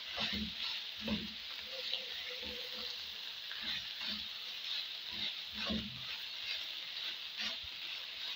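Samosa filling of beef, onions and spices sizzling in a frying pan while it is stirred, the utensil scraping and knocking against the pan about once a second.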